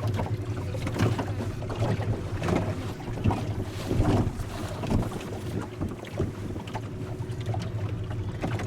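Boat motor running steadily on the lake, with wind buffeting the microphone and irregular thumps and splashes over the engine hum.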